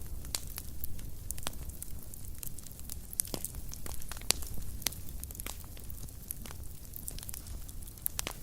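Wood fire crackling in a fireplace: many irregular sharp pops and snaps over a low steady rumble of the flames.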